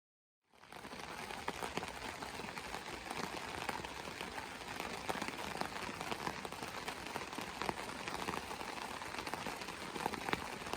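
Wood campfire crackling, with a dense run of small sharp pops and snaps.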